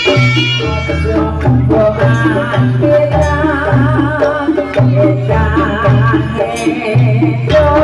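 Live jaranan music for a kuda lumping dance: drums and percussion over a repeating two-note bass, with a wavering melody line above.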